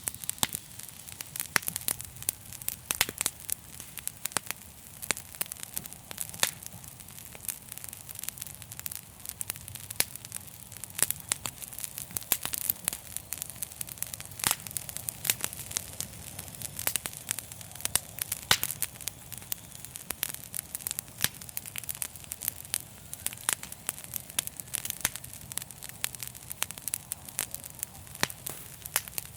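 Wood fire crackling: irregular sharp pops and snaps over a steady hiss, with a faint low hum underneath.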